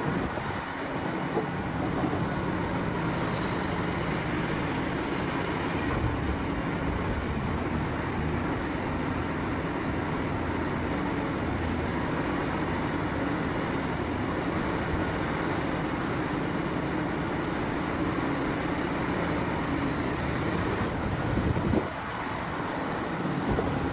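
Heavy diesel mining machinery running steadily under load, a continuous engine drone with a low steady hum.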